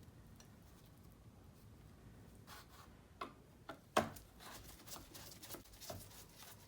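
Clicks and taps of scooter head-panel and speedometer parts being handled during disassembly. They start about two and a half seconds in and come irregularly, the sharpest about four seconds in.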